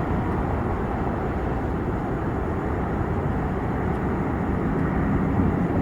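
Jet airliner engines, a steady low rumble, with a faint steady tone joining in about three-quarters of the way through.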